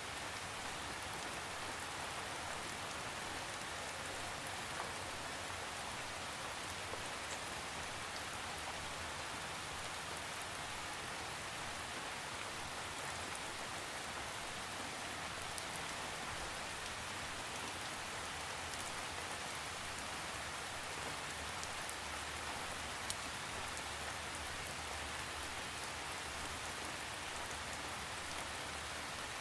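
Steady rain falling, with a constant hiss and the patter of individual drops on a surface, without thunder.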